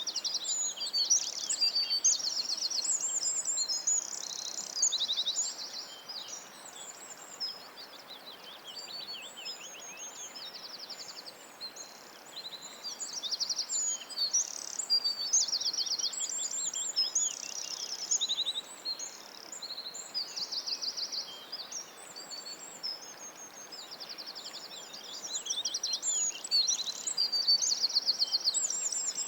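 Birds singing: a dense, varied run of high-pitched trills, chirps and fast repeated note series, with no break.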